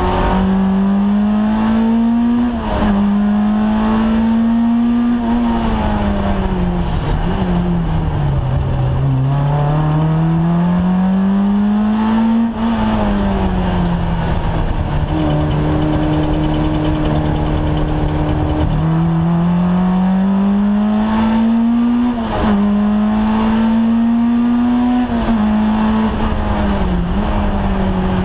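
Peugeot 205 GTI Mi16 rally car's 16-valve four-cylinder engine at full effort, heard from inside the cabin. The revs climb with quick drops at each upshift, fall away twice for a few seconds, and hold steady for a few seconds in the middle.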